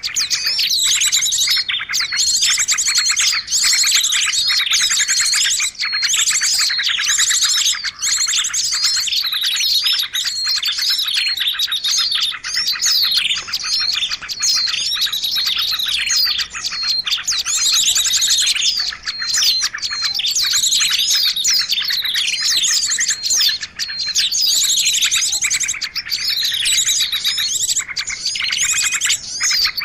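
A dense, unbroken chorus of many small birds chirping and twittering over each other at once: the noisy 'ribut' lure recording played to draw in birds of all kinds.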